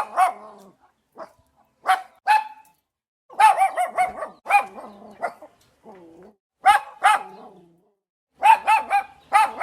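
A dog barking repeatedly, in short runs of barks with brief pauses between them.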